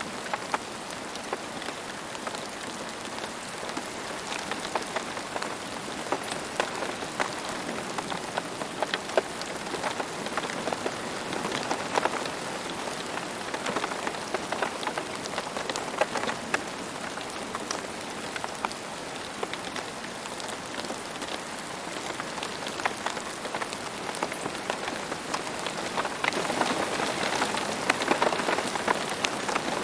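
Steady rain falling on a surface, with many separate drop ticks over an even hiss. It grows a little heavier near the end.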